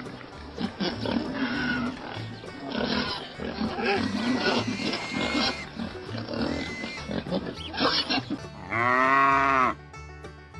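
Animal grunts and rough calls over background music, with one loud, drawn-out call that rises and falls in pitch about nine seconds in. Steady music notes take over near the end.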